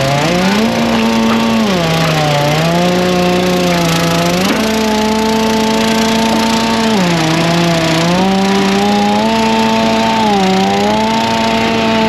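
Gasoline chainsaw running at high revs as it cuts. Its pitch drops and rises again several times, holding each level for a second or more.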